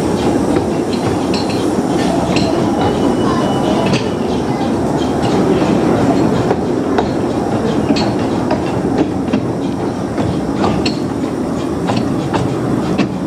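15-inch gauge steam-hauled train running slowly, heard from on board: a steady rumble and rattle of the coaches, with scattered clicks from the wheels on the track.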